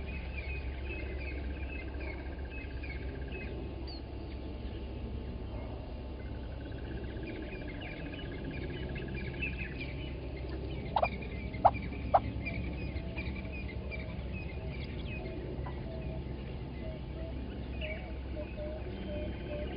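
Morning bird chorus in African bushveld: many small chirps and two long even trills, with three loud, sharp calls in quick succession a little past the middle. A steady low hum runs underneath, and a faint rapid ticking call starts near the end.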